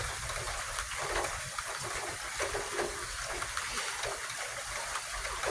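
Steady rain falling, an even hiss with no distinct thunderclap.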